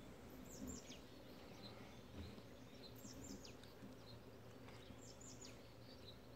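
Faint birdsong: clusters of three or four short, high chirps that sweep downward, about a second in, again at about three seconds and again at about five seconds, over quiet outdoor room tone.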